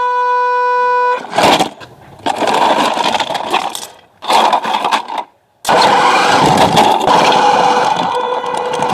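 Radio-controlled model trucks running: loud motor and gearbox noise with an engine-like sound, broken by several abrupt cuts. A steady electronic tone opens and stops about a second in.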